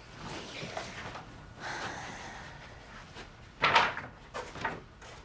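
Rustling handling noise, then a sharp knock about three and a half seconds in, followed by two lighter knocks.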